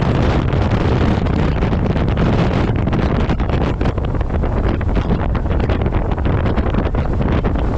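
Wind buffeting a microphone on a camera strapped to the front of a moving truck: a loud, steady rush with a heavy low rumble and rapid fluttering.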